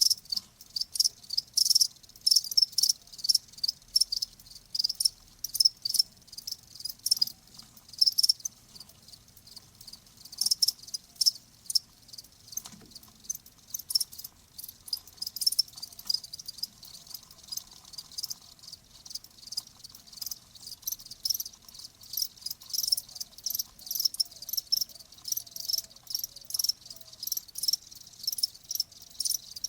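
Crickets chirping: short, high-pitched chirps repeating several times a second, without a break.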